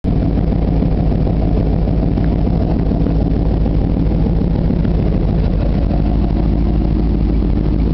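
1989 Ford Bronco's 351 Windsor fuel-injected V8 idling steadily through near-straight pipes with a baffled tip.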